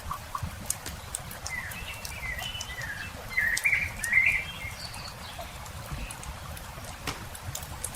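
Campfire crackling with scattered sharp pops, over a low rumble. A small songbird chirps a run of short notes from about one and a half to four and a half seconds in.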